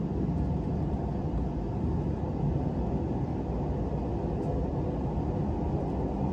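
Steady low rumble of a JR Hokkaido 789 series 1000 subseries electric train running, heard from inside the passenger car as it pulls away from a station.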